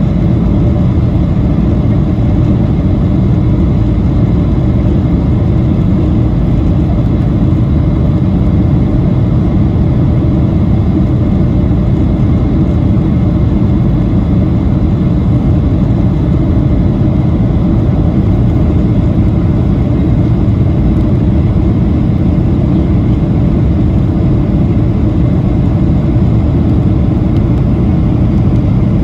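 Boeing 737-800 cabin noise: the steady low rush of airflow and CFM56-7B engines, unchanging throughout.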